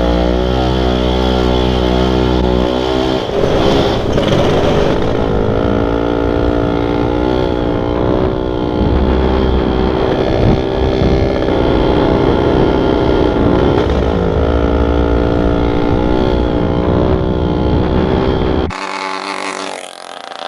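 Dirt bike engine running and revving, its pitch rising and falling repeatedly; the engine sound cuts off suddenly near the end.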